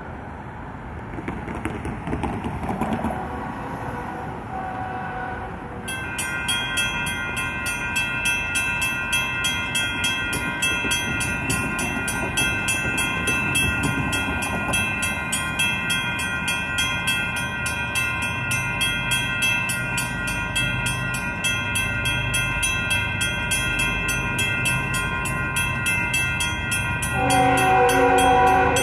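Railroad crossing bells, a mix of electronic bells and a mechanical bell, start ringing about six seconds in with rapid, even dings as the crossing activates for an approaching freight train. A loud train horn blast comes near the end.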